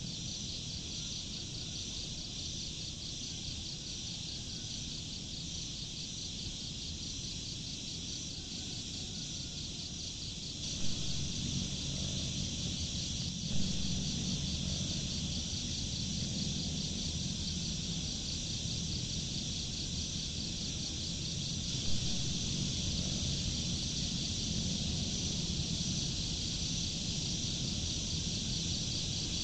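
Steady, fast-pulsing chirring of insects, crickets by the sound of the tags. Under it runs a low rumble that grows louder about a third of the way in, with three brief soft knocks.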